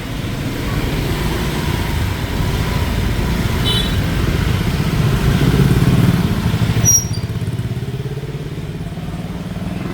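Motorbike and scooter engines running in busy street traffic, growing louder as one passes close, then falling away suddenly about seven seconds in.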